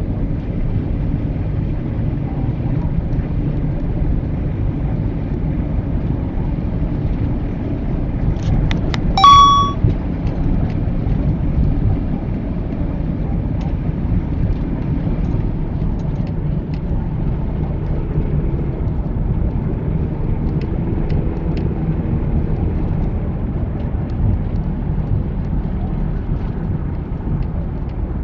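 Steady low road and engine rumble of a car driving in traffic. About nine seconds in, one short, sharp high-pitched sound with a clear tone cuts through as the loudest moment.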